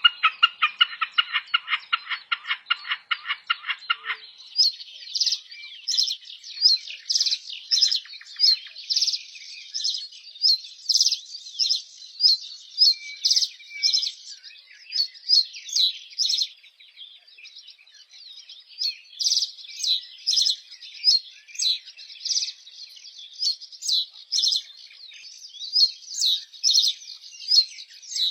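Small birds chirping: many short, high chirps in quick succession, thinning to a lull midway and then resuming. It opens with a lower, rapid repeated call of about eight notes a second, which cuts off abruptly about four seconds in.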